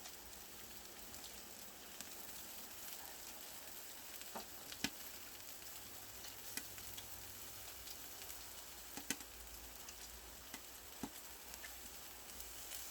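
Marinated pork belly sizzling on a grill over a wood-fire brazier: a faint, steady hiss with a few sharp pops.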